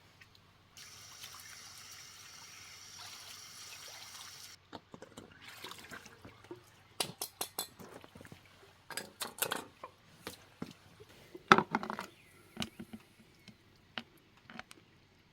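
Liquid being poured in a steady stream for about four seconds, then a string of knocks and clatters from objects being handled and set down, the loudest a little before the end.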